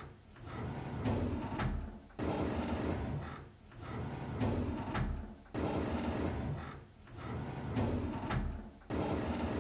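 A drawer sliding open on its runners, over and over about every three and a half seconds. Each time a noisy rolling rumble starts suddenly, dips, then swells again and fades.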